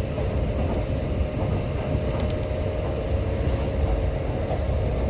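Kintetsu electric train running, heard from inside the carriage: a steady low rumble with a faint even hum and a few light clicks.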